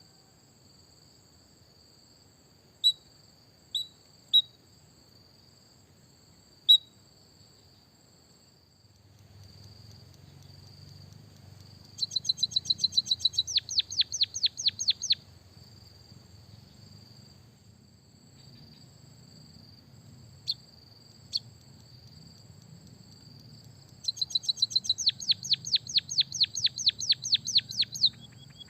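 A white-headed munia singing with canary-style phrases. It gives a few scattered single high chirps, then twice breaks into a rapid run of repeated sweeping notes, about ten a second, each run lasting three to four seconds. A steady high thin whine, like an insect, runs underneath.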